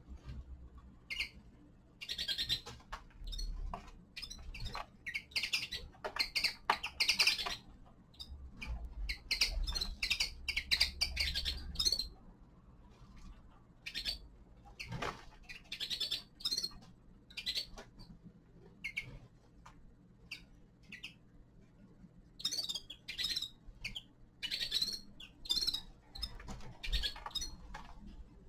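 Small finches chirping and twittering in short bursts and runs, several calls overlapping at times, with quieter gaps between the bursts.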